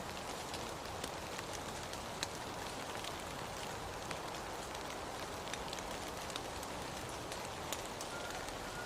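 Steady rain falling, with the sharp ticks of individual drops scattered through it. A faint, steady high tone comes in near the end.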